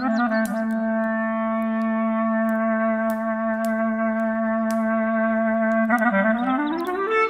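Clarinet holding one long low note for about six seconds, then climbing in a quick rising run of notes near the end. Faint sharp crackles of a campfire are scattered over it.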